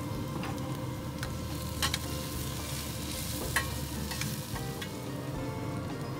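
Onions sizzling in a skillet and flat iron steaks searing over open flame on a pellet grill, with a spatula stirring the onions and clicking against the pan a few times, loudest about three and a half seconds in.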